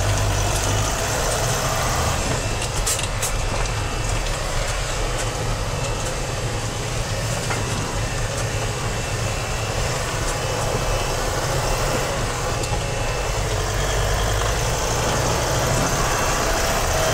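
Mercedes 4x4's engine running steadily while the vehicle drives over a snow-covered track, heard from inside the cab along with tyre and body noise. A couple of sharp clicks come about three seconds in.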